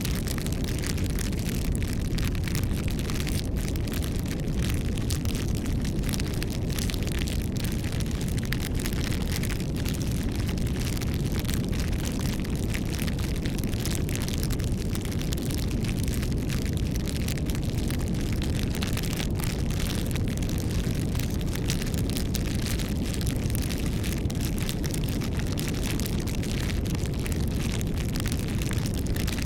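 Wood campfire burning: a steady low rush of flames with frequent small crackles and pops of the wood.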